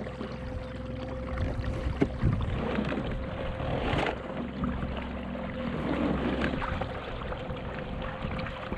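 Electric outboard motor on a kayak running with a steady whine, over water rushing and splashing along the hull, with a couple of sharp knocks.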